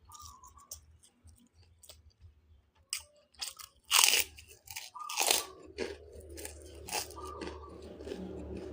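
A person crunching and chewing food, with a loud crunch about four seconds in and another just after five seconds, then steady chewing.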